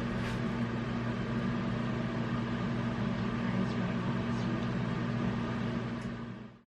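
A steady low mechanical hum with a few faint clicks, fading out near the end.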